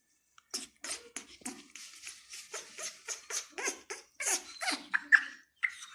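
Pet parrot calling: a rapid string of short, harsh calls, about three a second, with a brief whistled note near the end.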